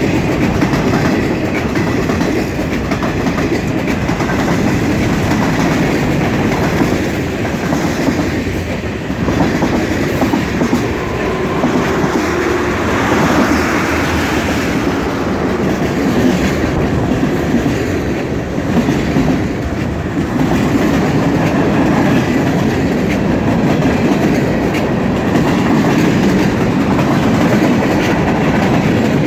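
Freight cars of a mixed freight train rolling past on the rails, a loud steady rumble of wheels on track.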